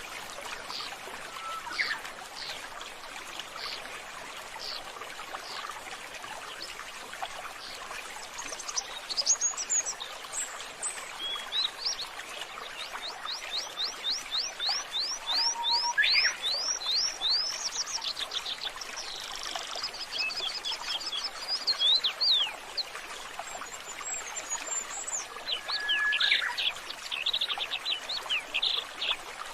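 Several birds chirping and calling, with fast trills of short, sweeping notes that come thickest in the middle of the stretch, over a steady trickle of running water.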